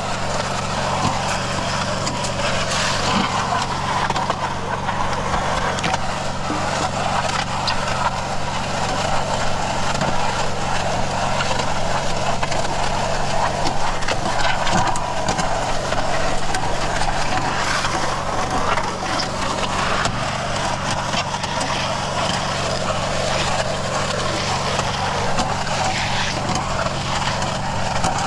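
Portable continuous concrete mixer running steadily: its motor humming under the grinding churn of bagged concrete mix being fed through its spiral auger.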